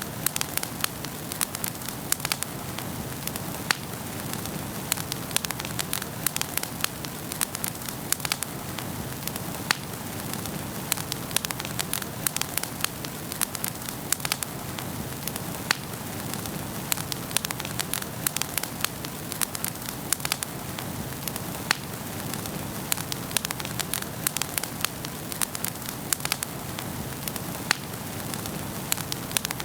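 Wood fire burning in a fireplace, with a steady low rush and many sharp, irregular crackles and pops.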